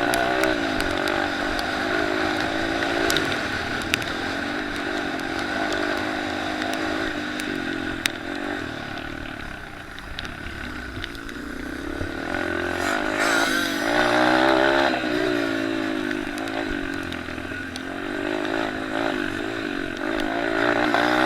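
Small motocross and pit bike engines racing, their revs rising and falling as they accelerate and shift, getting louder as bikes come close around the middle and again near the end. A couple of sharp clicks break in early on.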